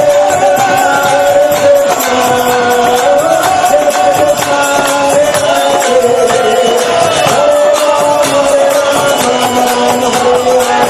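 Devotional chanting music: voices singing long held lines over a jingling percussion that keeps time.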